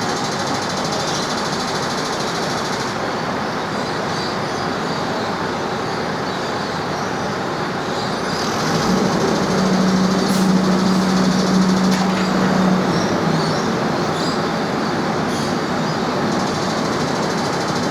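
Sugar-cane train running, a steady mechanical rumble. About nine seconds in, a steady low hum comes in and the sound grows louder for about four seconds, then settles back.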